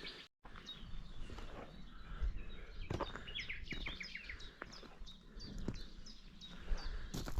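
Small songbirds singing, with many short, quick chirps repeated in runs, over a low steady outdoor rumble. The sound cuts out completely for a moment just after the start.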